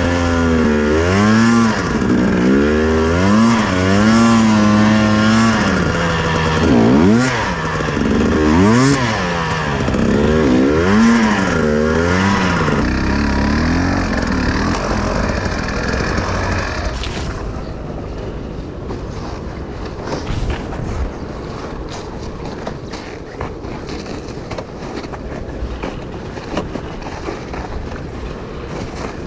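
Enduro motorcycle engine revving up and down repeatedly. About two-thirds of the way through, the engine sound drops away, leaving a steady rushing noise like wind on the microphone and a faint low hum.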